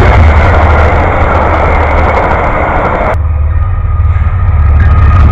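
Amtrak passenger train cars rolling past close by, a loud steady rumble of wheels on rail. About three seconds in it changes abruptly to the quieter, duller rumble of a freight train approaching.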